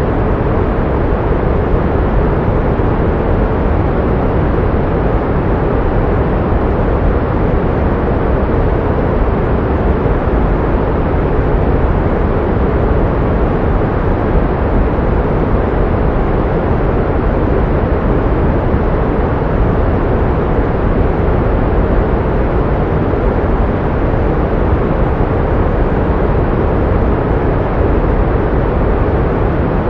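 Pink noise: a steady, even rushing hiss, deeper than white noise, with most of its weight in the low end and fading toward the treble. It does not change.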